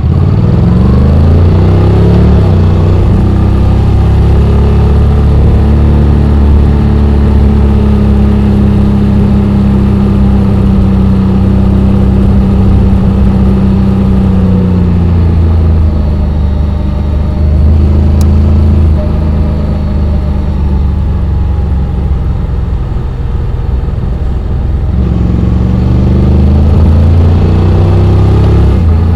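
Honda X-ADV 750's parallel-twin engine under way. The revs climb in the first couple of seconds, hold steady, fall away about halfway through, then climb again near the end.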